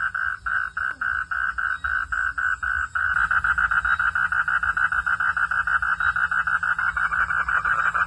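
Frogs calling at night in a continuous pulsed chorus. About three seconds in, the steady even pulsing of about four a second thickens into a denser, faster trill.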